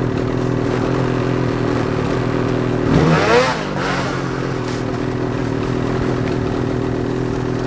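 Mountain snowmobile engine held at steady high revs under throttle as the rider powers the sled out of deep snow in a creek, with a brief louder swell and pitch sweep about three seconds in.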